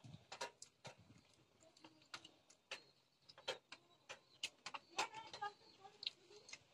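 Close-up eating sounds: irregular soft clicks and smacks of chewing, from a man eating goat intestine curry with his fingers.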